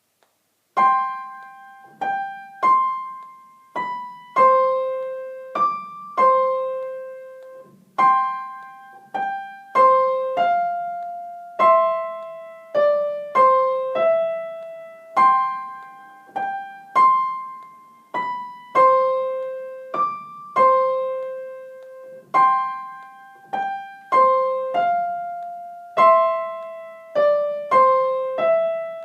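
Piano playing the primo part of a four-hand piano duet: a slow, simple melody of separate struck notes, mostly two at a time, each left to ring and fade before the next.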